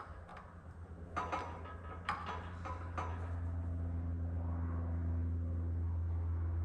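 Shop press forcing a needle-bearing cap into a CV joint yoke: three sharp metallic clicks in the first three seconds, over a steady low hum that grows louder about three seconds in. The cap is pressing in stiffly from the very start.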